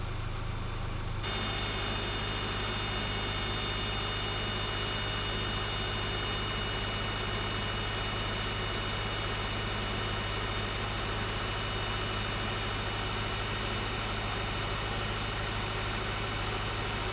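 2009 Subaru Outback engine running steadily at a raised idle with the A/C compressor engaged while the system is being charged. The sound changes abruptly about a second in, after which a steady high-pitched whine sits over the engine note.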